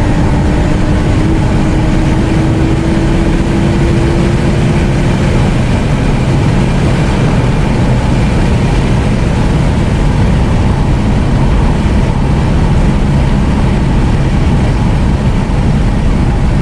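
Inside the cabin of a big-turbo Nissan Skyline R34 GTT, its turbocharged RB25DET straight-six engine runs under load together with road noise. The engine note rises slowly over the first five seconds or so, then blends into a steady, loud mix of engine and road noise.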